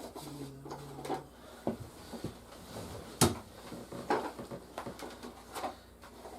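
Plastic toy figures and vehicles being handled and set down: a series of irregular light clicks and knocks, the sharpest about three seconds in.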